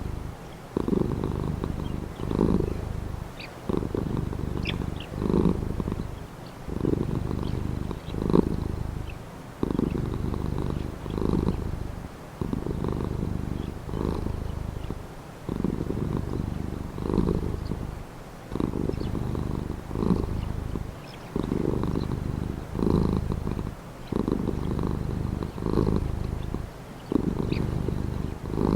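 Domestic cat purring steadily and closely, the rumble swelling and easing with each breath about every one and a half seconds. Faint short bird chirps come through now and then.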